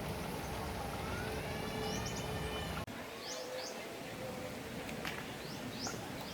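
Birds calling outdoors: a drawn-out rising call in the first half, then, after a sudden cut, short high chirps repeating about once a second, over steady background noise.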